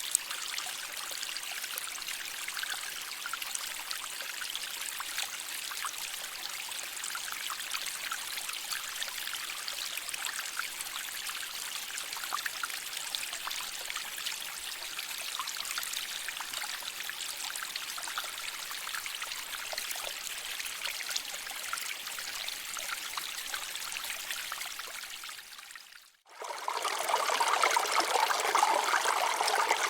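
Shallow stream water flowing over rocks, a steady trickling and splashing. About 26 seconds in it fades out briefly, then returns louder and fuller.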